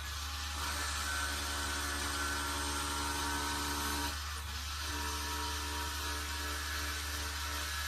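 Custom-built automatic prayer-bead (tespih) turning machine running as it shapes a bead blank: a steady motor whine over a low hum. The whine breaks off briefly about four seconds in, then comes back.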